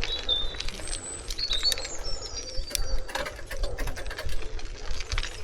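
Birds chirping in short high calls and glides over a steady low rumble, with scattered sharp clicks.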